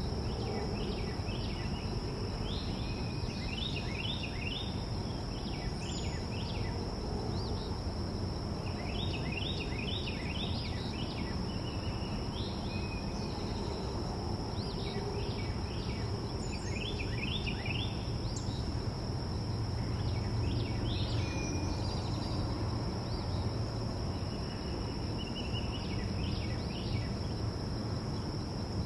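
Small birds giving clusters of quick chirps every few seconds, over a steady high-pitched drone and a low background rumble.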